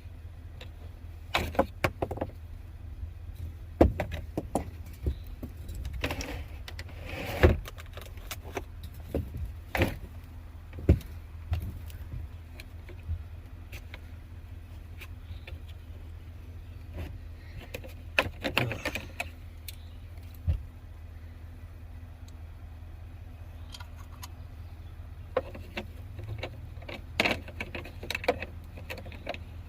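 Irregular metallic clinks, rattles and knocks of tools and parts being handled, over a steady low hum.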